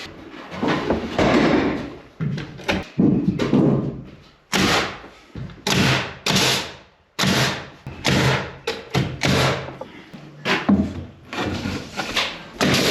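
Irregular series of loud thumps, bangs and knocks, a dozen or more, each dying away with a short ring, typical of building work as wall framing goes on.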